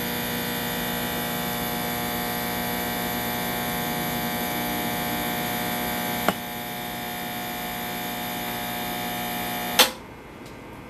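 Intoxilyzer 5000 breath-alcohol instrument running with a steady mechanical hum during its calibration-check cycle. There is a click about six seconds in, and the hum cuts off with another click near the end.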